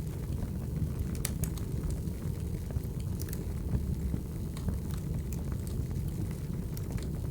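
Wood fire burning with a steady low rumble and scattered sharp crackles and pops from the burning logs.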